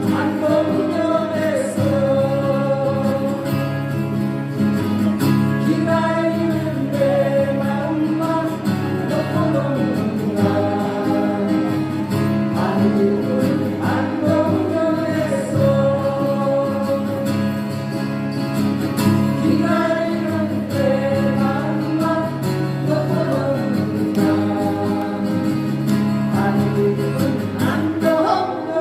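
Live amplified performance: singing over strummed acoustic guitars, heard through a PA system.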